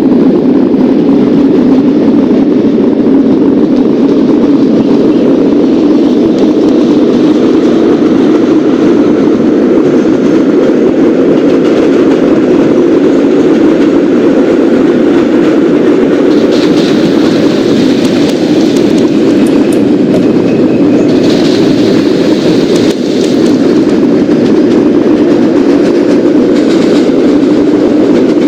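New York City subway garbage train running along the track with a loud, steady rumble, and two short higher-pitched hisses or squeals from the wheels or brakes about 17 and 21 seconds in.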